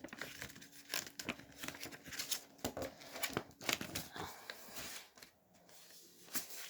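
A sheet of paper being folded and creased by hand, crinkling and rustling in short irregular crackles that die down about five seconds in.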